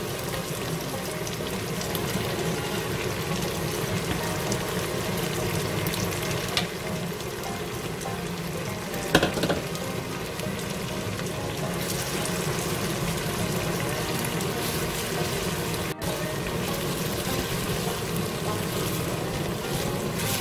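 Chunjang (black bean paste) frying in oil in a pan of cabbage, onion and pork, sizzling steadily as a wooden spatula stirs it in, with a few short knocks of the spatula on the pan.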